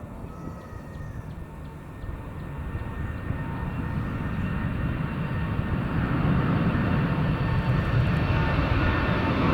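Jet airliner taking off: a deep engine rumble with steady whining tones, growing steadily louder as the aircraft approaches.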